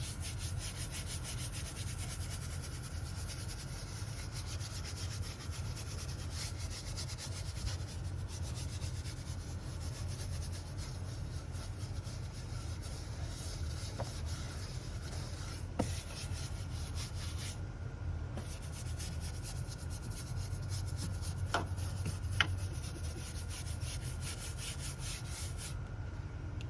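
Rapid back-and-forth scrubbing on a sudsy engine-bay surface, the rubbing of the cleaning tool working the foaming cleaner and lifting dirt, with a few light knocks along the way. It pauses briefly about two-thirds of the way through and stops shortly before the end.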